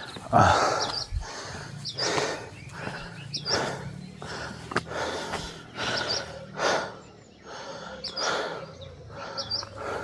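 A hiker's breathing as he climbs, with a puff about every second and a half. Small birds chirp briefly several times.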